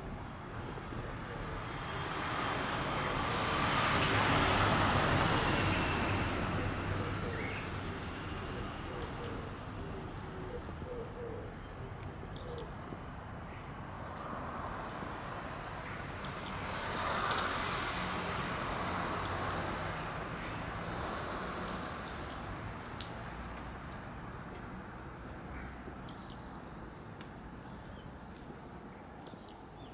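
Two cars pass by one after the other, each a swell of tyre and engine noise that builds and fades, the first about four seconds in and the second about seventeen seconds in. Between them come a few short bird chirps.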